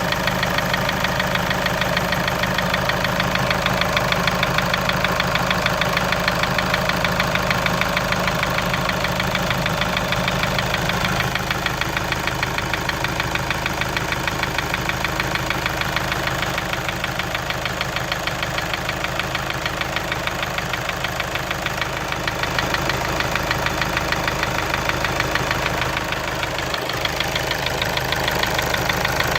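VW Passat B6's CBAB 2.0 TDI diesel engine running steadily with a fast, rhythmic knock. It follows oil starvation from a clogged oil pickup. Oil pressure is present and new rod bearings did not cure it, so the owner takes it for either a hydraulic lifter or a piston pin.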